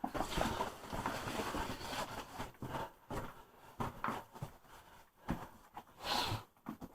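Irregular scuffs, knocks and rustling of people moving over the rock of a cave passage.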